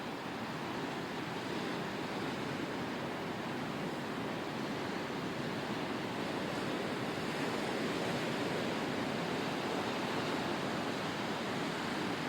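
Ocean surf washing in a steady rush, growing slightly louder over the first half.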